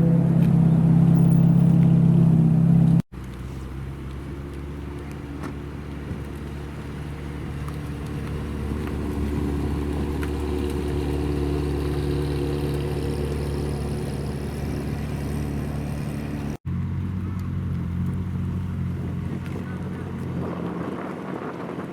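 Supercar engines running steadily at low revs, heard in three edited clips that cut abruptly about three seconds in and again near the two-thirds mark; the first clip is the loudest.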